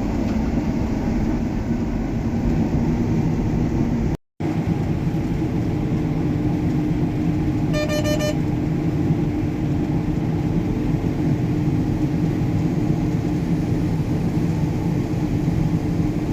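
John Deere S680 combine running steadily under harvest load, a constant machine drone with a steady hum. A short run of high electronic beeps sounds about eight seconds in.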